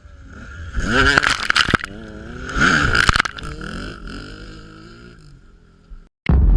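Two-stroke dirt bike engine revving in two throttle blips, its pitch rising and falling each time, over a steady running engine.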